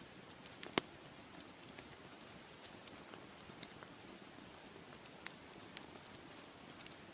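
Wood fire crackling: scattered sharp pops and snaps over a soft steady hiss, with one louder pop a little under a second in.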